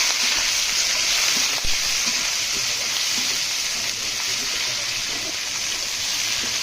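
Tiger prawns sizzling steadily in hot oil with ginger, garlic and cumin paste in a kadai, with a single knock about one and a half seconds in.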